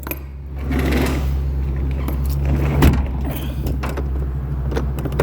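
U-Haul rental truck's engine idling steadily, with metallic rattling and one loud bang about three seconds in as a door on the truck is shut.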